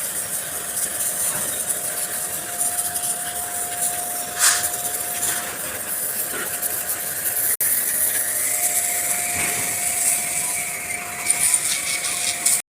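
A steady, loud hiss with a thin steady tone running under it. The hiss swells briefly about four seconds in and cuts out for a moment a little past halfway.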